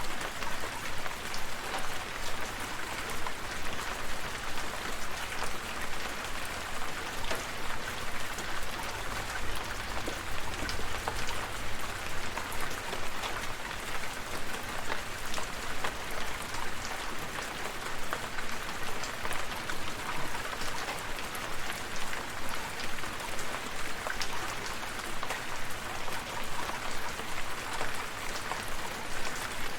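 Steady rain falling, with many individual drops heard as small, sharp ticks over an even hiss.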